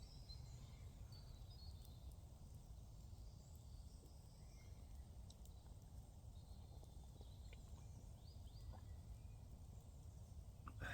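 Near-silent woodland with faint, distant woodpeckers: a few short, high calls now and then over a low background hush.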